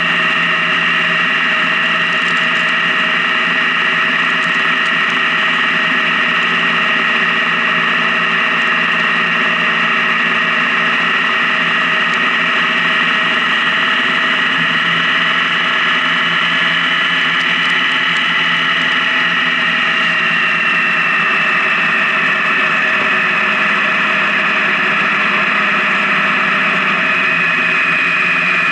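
Honda Gold Wing touring motorcycle cruising at highway speed: its engine runs steadily, mixed with road and wind noise. A high whine in the drone eases slightly lower in pitch about twenty seconds in, as the bike slows a little.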